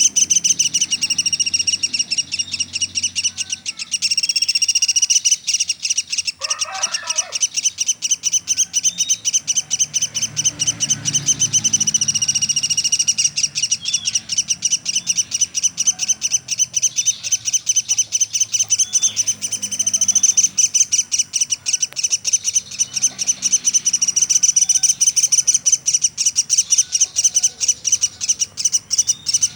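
Small woodpecker ('pelatuk') calling nonstop: a fast, even series of high, shrill notes repeated many times a second. A short scratchy noise comes about six seconds in.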